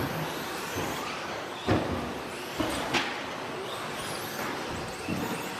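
Several 2WD RC stadium trucks with 13.5-turn brushless electric motors running around the track, faint high motor whines rising and falling. A few sharp knocks stand out, one a little under two seconds in and two more around three seconds in.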